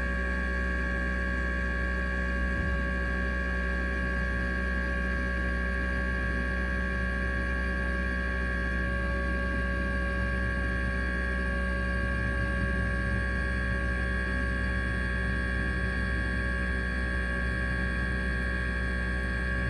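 Fuel injector test bench running: a steady electric hum with several fixed high-pitched tones held unchanged.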